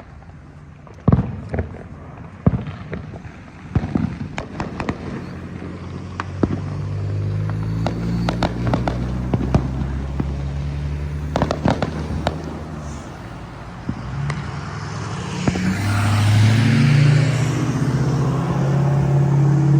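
Fireworks and firecrackers going off at irregular intervals, sharp bangs and pops. From about six seconds in, a vehicle engine hums underneath and gets loudest near the end as it passes.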